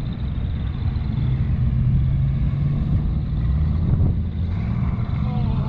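Car engine running with a low, steady exhaust drone, shifting slightly in pitch about four seconds in.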